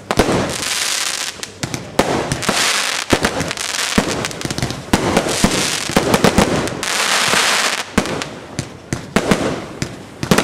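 Fireworks display: many sharp bangs in quick succession over several long swells of hiss.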